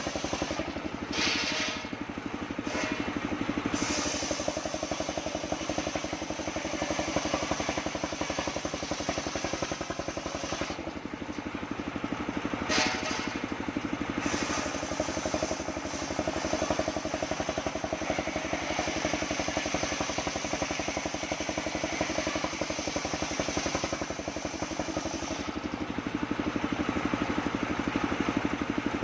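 The engine driving a homemade circular sawmill runs steadily, with two brief sharper high sounds, about a second in and again about 13 seconds in.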